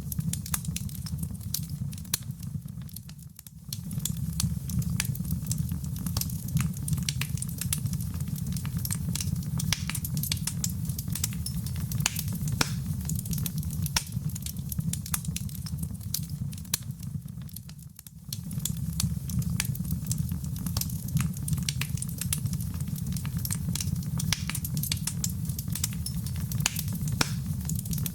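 Fire in a fireplace crackling: a steady low rumble of flames under dense, irregular pops and snaps. The sound dips briefly and comes back twice, about three seconds in and again about eighteen seconds in.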